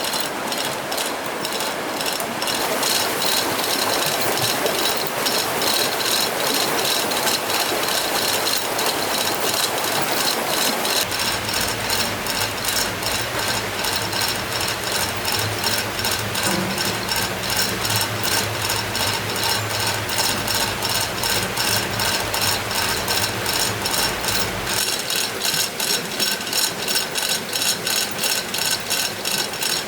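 Ratchet mechanism clicking rapidly and evenly, about three to four clicks a second. A low steady hum joins about a third of the way in and stops a few seconds before the end.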